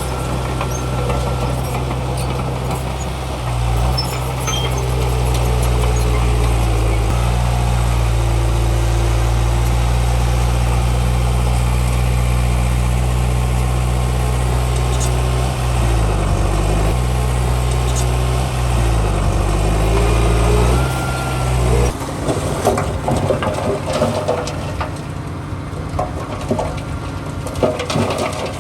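Heavy diesel engine of earthmoving machinery running steadily under load, its pitch dipping and rising again a couple of times past the middle. Near the end the steady engine note drops away into irregular clattering and knocks.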